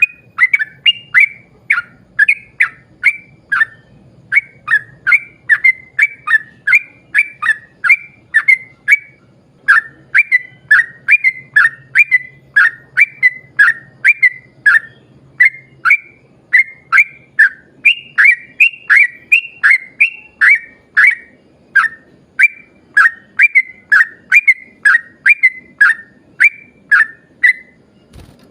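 Yellow-vented bulbul (trucukan) singing in long rapid runs of short, whistled, downward-slurred notes, about two or three a second, with brief pauses between phrases.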